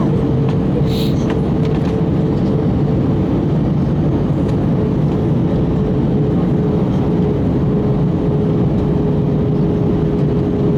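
Airbus A321 cabin noise in flight: a constant rush of airflow and engine noise, heaviest in the low range, with a thin steady tone running through it.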